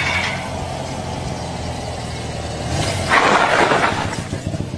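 Motorcycle engine running steadily, then a louder, rougher swell of noise about three seconds in that lasts roughly a second.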